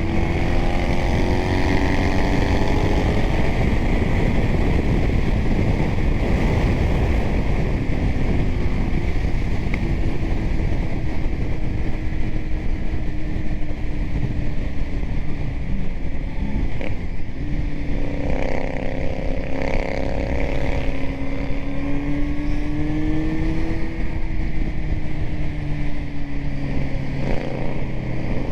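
Kawasaki Z900's inline-four running through a titanium Arrow exhaust while riding, its pitch rising and falling as the rider accelerates and backs off, with wind rushing over the helmet-mounted mic.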